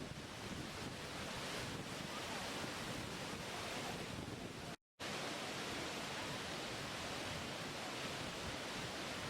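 Steady rush of water, an even hiss with no pitch or rhythm, briefly cut to silence for a split second about halfway through.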